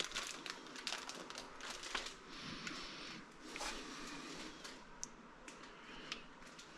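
Faint, scattered clicks and crinkling as plastic filter-kit parts and their packaging are handled.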